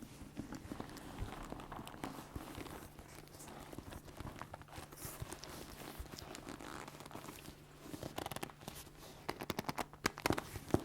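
Leather being handled and flexed close to the microphone, giving a soft, continuous creaking and rustling. Near the end it breaks into a quick run of sharp crackling clicks that grows louder.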